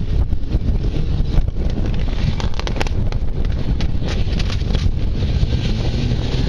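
Rally car engine running hard as the car drives down a gravel sprint course, with wind buffeting the microphone.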